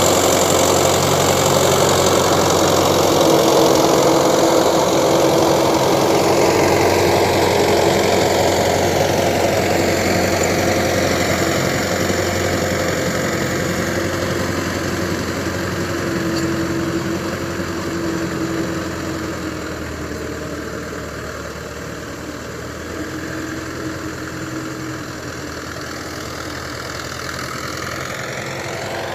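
Tractor diesel engine running steadily while pulling a rotavator through a field. The sound slowly gets quieter over the middle and its higher notes slide down in pitch, then rise again near the end.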